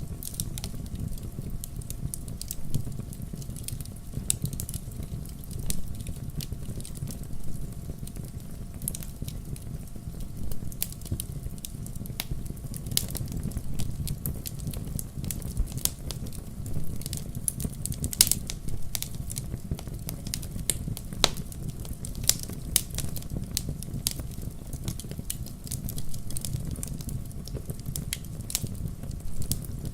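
Wood fire burning in a fireplace, crackling steadily over a low rumble, with irregular sharp pops, the loudest a little past halfway.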